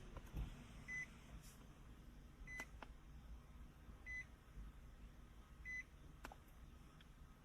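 Faint electronic beep, a short single tone repeating about every one and a half seconds (four times), with a few faint clicks in between.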